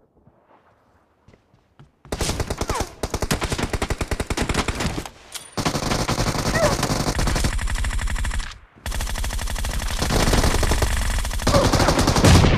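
Rapid automatic gunfire in long sustained bursts, starting about two seconds in, with brief pauses about halfway and again later.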